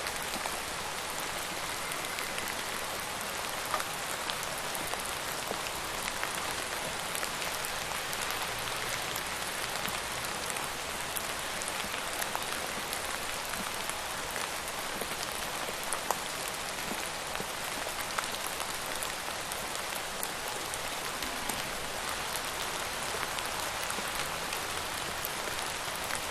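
Steady rain falling, a continuous hiss with individual drops pattering and ticking on a surface.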